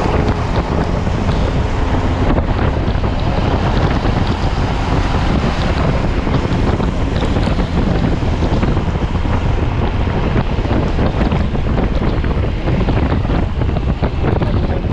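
Steady loud rush of wind buffeting the microphone on a Yamaha T-Max 530 maxi-scooter riding at speed in heavy rain, mixed with the hiss of rain and road spray.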